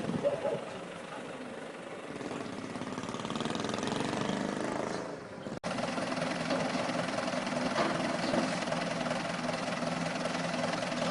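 A machine running steadily with a low hum, cut off abruptly about halfway through and resuming at once.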